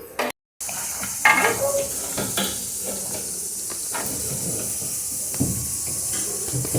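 A steady hiss, with a few light knocks and clatters scattered through it.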